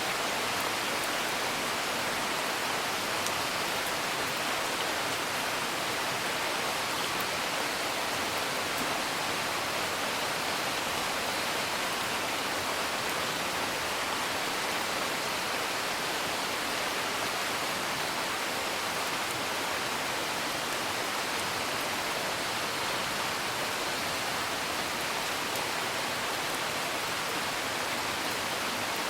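Steady rain, an even hiss without pauses, with a few faint crackles from a fire.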